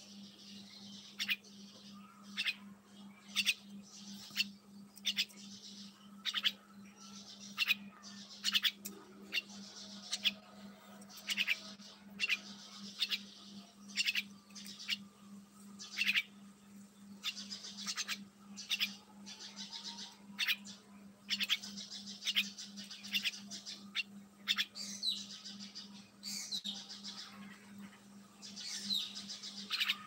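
Small caged birds chirping: short, high chirps about once a second, with a few longer sweeping calls near the end.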